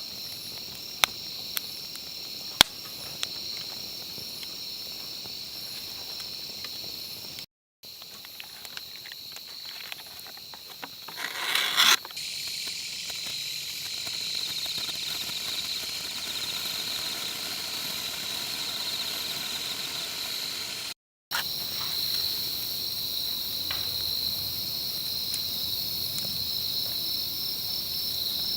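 Insects chirring in a steady, high-pitched drone, with a few sharp clicks in the first few seconds and a brief swell of noise about halfway through.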